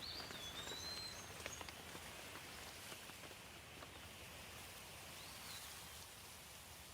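Light rain falling steadily, with scattered drips. A songbird gives a short whistled call in the first second and another about five seconds in.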